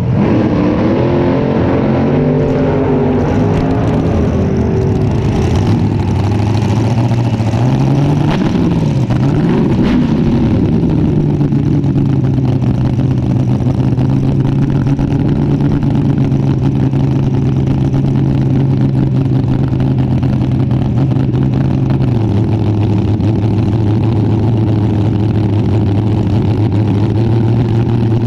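Front-engine dragster's engine running at idle. Its pitch wavers at first, is revved up and back down about nine seconds in, then holds steady and drops a step lower about twenty-two seconds in.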